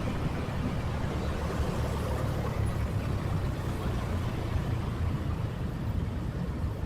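Motorcycle engine running steadily while riding, a low even rumble mixed with wind and road noise.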